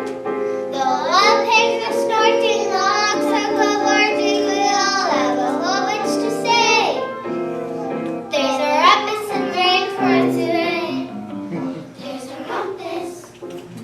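A group of children singing a song together over musical accompaniment. The singing thins out about eleven seconds in, leaving softer accompaniment.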